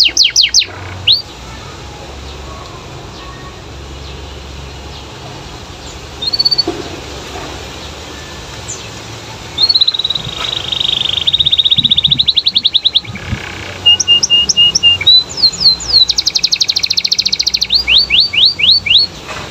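Domestic canary singing in bursts: a short trill at the start, then after several seconds of quiet, long rolling phrases of rapidly repeated sweeping notes with a brief run of even, steady notes in the middle.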